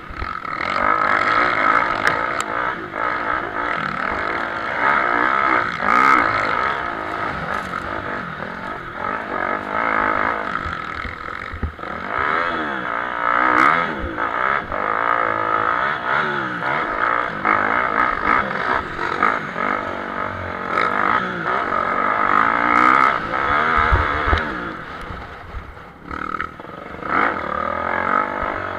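Motocross bike engines racing on a dirt track, rising and falling in pitch as riders open and close the throttle through the turns and jumps, with several bikes overlapping and an occasional sharp knock.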